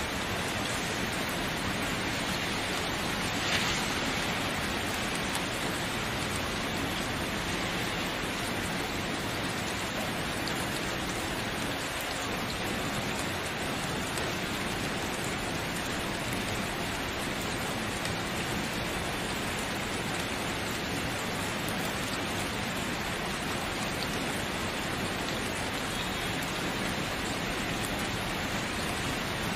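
Steady rain falling on a surface, with a single louder drop or tap about three and a half seconds in.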